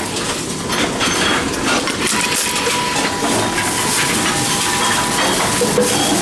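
Envipco CF-1500 reverse vending machine running, its mechanism taking in and crushing a plastic bottle with a steady rattle and repeated knocks, and a faint steady whine through the middle.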